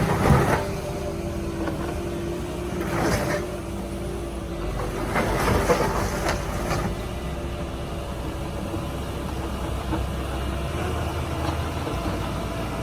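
Heavy machine's engine running steadily, with several louder crunching bursts, the first right at the start and others about three and six seconds in.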